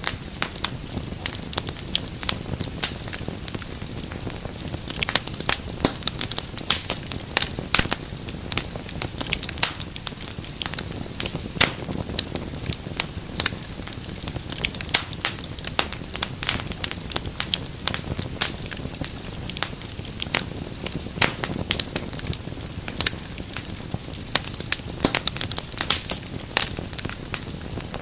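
Wood fire crackling in a fireplace: many sharp, irregular pops and snaps over a soft, steady rush of flame.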